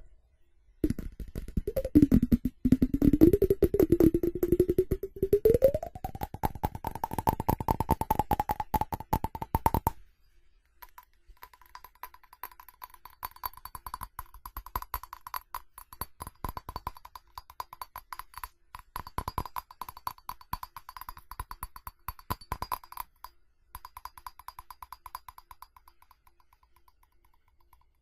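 Fast tapping on ceramic, a dense run of rapid taps with a ringing tone that rises in pitch. After about ten seconds the taps turn quieter, with a steady ring, and fade near the end.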